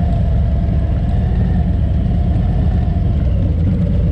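Harley-Davidson V-twin motorcycle engine running steadily on the road, with a heavy low rumble of wind and engine on the mic.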